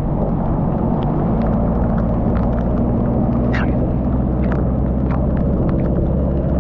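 Motorcycle engine running at a steady speed under heavy wind and road noise, with scattered sharp ticks throughout.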